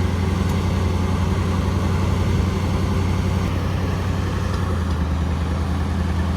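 A motor engine running steadily at idle, a constant low hum with no change in speed.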